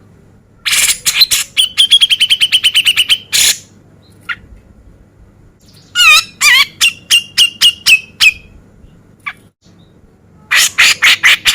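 Male grey-cheeked bulbul (cucak jenggot) calling loudly in three bouts of rapid, sharp chattering notes; each bout runs into a quick string of repeated notes.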